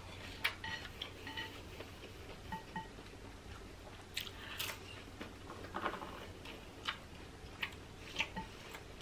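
Close-up mouth sounds of someone eating seafood by hand: soft chewing and lip smacks, heard as irregular short clicks, a few louder than the rest.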